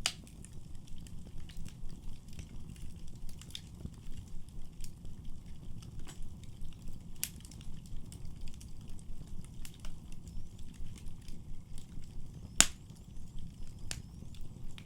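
Wood fire burning in a fireplace: a steady low rumble of flames with scattered crackles and pops, and one loud sharp pop near the end.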